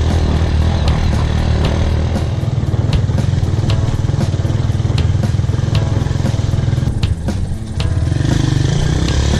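Motorcycle engine running under way, with scattered clatter and knocks. The engine eases off briefly about seven seconds in, then picks up again.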